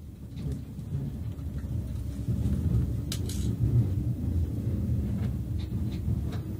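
Low, steady running rumble of a 381-series limited express train heard from inside the car. It grows louder over the first couple of seconds, and a few light clicks sit over it.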